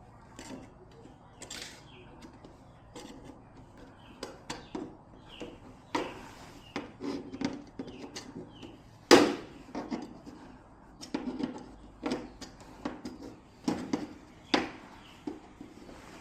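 Irregular clicks, taps and knocks of objects being handled, with one louder knock about nine seconds in.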